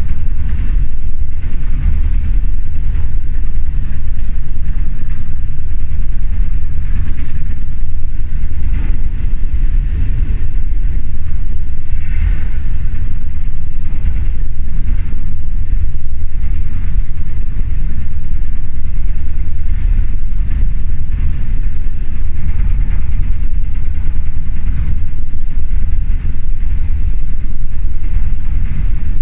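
Old passenger train running, heard from inside the carriage: a loud, steady low rumble with rattling, and a brief higher squeal about twelve seconds in.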